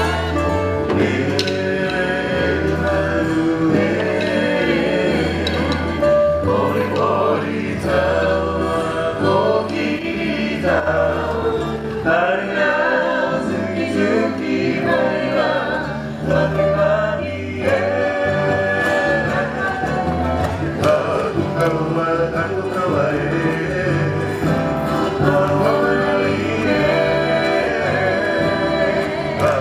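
A group of voices singing together over instrumental music with a repeating bass line.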